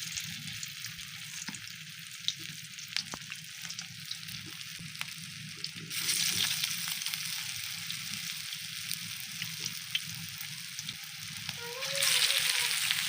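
Food sizzling in hot oil in a pan, with small scraping ticks from stirring. The sizzle gets louder about six seconds in and again near the end.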